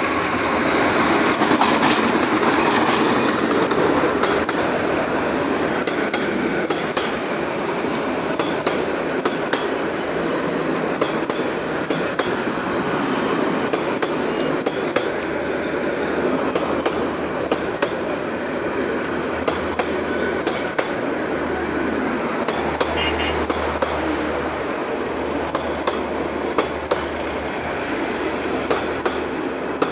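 Passenger train coaches rolling past close by: a steady rumble of steel wheels on the rails, loudest in the first few seconds, with repeated sharp clicks as the wheels cross the rail joints.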